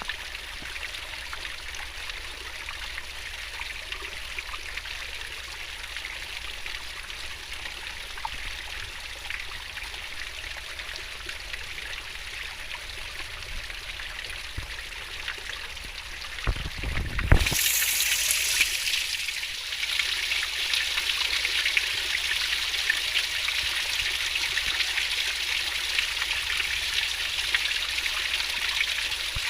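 A fast-flowing stream of water babbling and trickling steadily. About seventeen seconds in there is a brief low thump, and after it the rushing water is louder and brighter.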